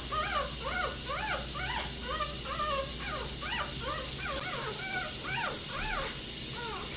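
Young puppies whimpering and crying: a quick run of short, high squeals that rise and fall in pitch, about three a second.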